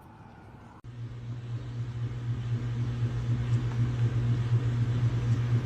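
A steady low motor hum that starts abruptly about a second in, with a rushing noise over it, growing gradually louder.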